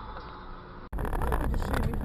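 Dash-cam recording of vehicle road and engine noise, a steady rumble, with an abrupt cut a little under a second in to a louder stretch of road noise.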